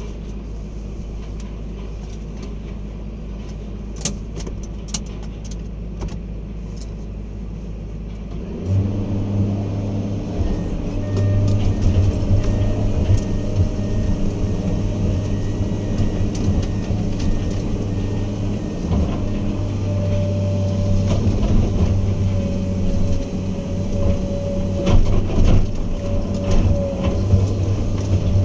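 Heavy earthmoving machine's diesel engine running at a low, steady rumble, then revving up about a third of the way in and running louder, as under working load. Occasional sharp knocks and clanks throughout.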